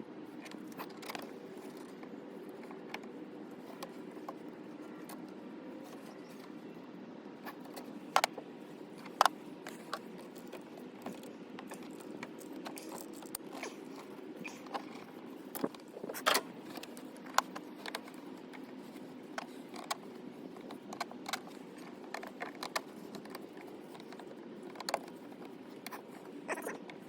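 Scattered clicks, clinks and light scrapes of hand tools and small metal parts being handled, over a steady low hum; a few sharper clinks stand out about eight, nine and sixteen seconds in.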